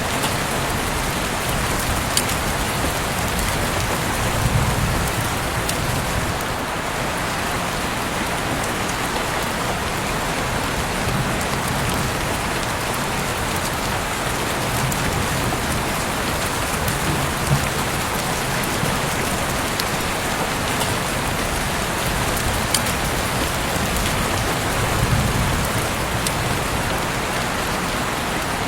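Heavy rain falling steadily, with a few sharper drop taps. Twice it is joined by a soft low rumble.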